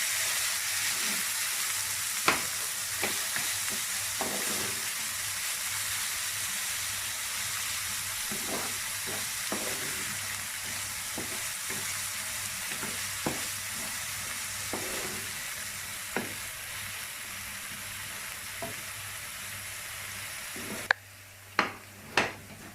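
Onions frying in hot oil in a pan with a steady sizzle, while they are stirred to brown them and the stirring utensil knocks against the pan every second or two. Near the end the sizzle drops away suddenly and a few sharper knocks follow.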